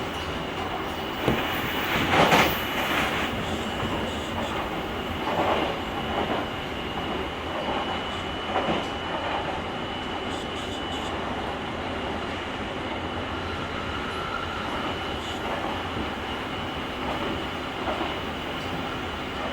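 Running noise of a JR Kyushu 883-series electric train heard from the car's deck: a steady rumble of wheels on rail. A few louder knocks and rattles break through, the loudest about two seconds in, and a thin high steady tone runs through the first half.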